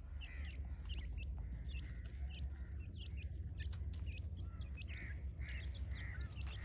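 Black francolin chicks calling: rapid, repeated short high chirps, two or three a second, over a low steady rumble.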